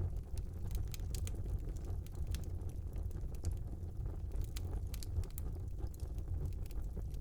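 Wood fire burning in a small fireplace: a steady low rumble of the flames with frequent scattered crackles and pops.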